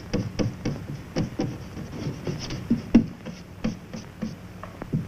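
Pencil sketching on paper: a quick, irregular run of short strokes and taps, several a second, that thin out and stop near the end.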